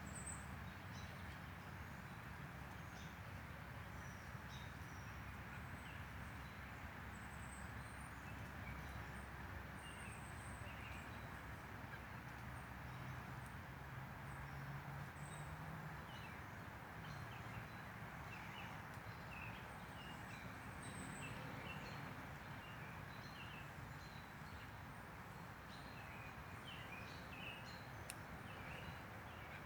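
Outdoor ambience: small birds chirping now and then over a steady faint hiss and low rumble.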